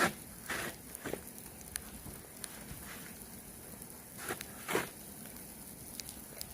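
Short crunching strokes in snow: three in the first second and two more a little past the middle, over a faint steady hiss.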